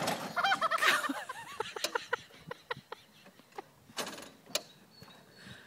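Tractor's mechanism clicking and knocking irregularly, the clicks thinning out and fading, with a few squeaks in the first second and a short hiss about four seconds in.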